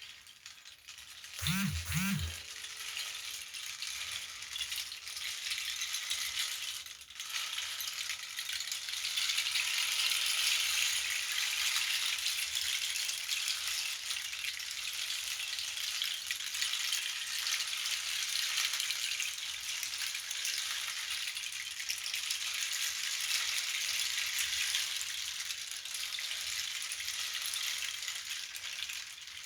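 Hand percussion instrument shaken continuously for a sound bath: a dense rattling hiss that swells about ten seconds in and then holds steady. Two brief low thuds come about a second and a half in.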